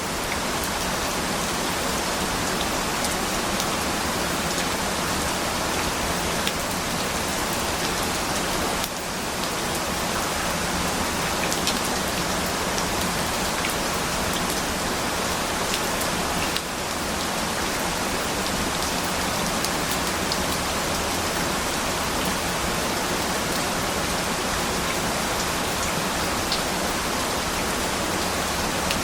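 Steady rain falling, a dense even hiss with scattered drops ticking, dipping briefly in level twice.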